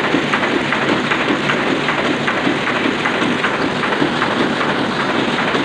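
Sakurai Oliver 66 sheet-fed offset printing press running, a steady dense mechanical clatter.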